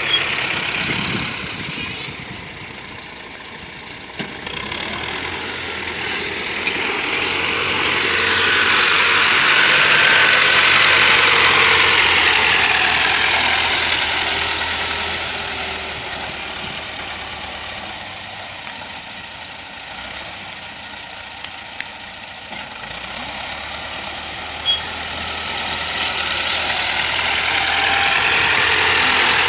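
T-40 wheeled tractor's air-cooled diesel engine running, growing louder about a third of the way in, fading, then swelling again near the end.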